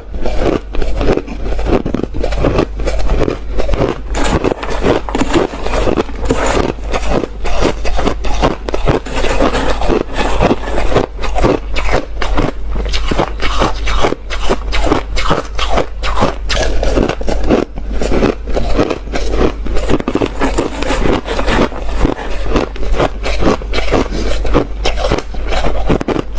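Hard ice being chewed and crunched close to the microphone: a continuous run of loud, sharp crunches, several a second.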